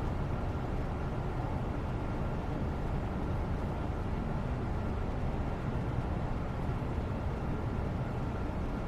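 Steady low rumbling background noise, even throughout, with no separate sounds standing out.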